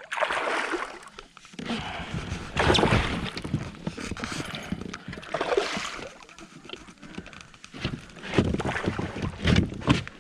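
Water splashing in irregular bursts as a hooked fish thrashes at the surface beside a kayak.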